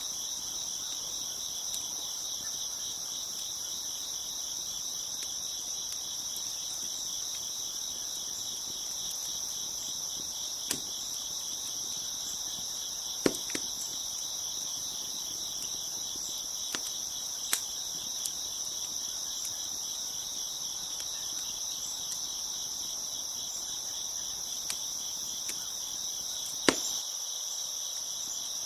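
Crickets chirping steadily in a dense high-pitched chorus, with a wood fire crackling: a scattering of sharp pops, the loudest one near the end.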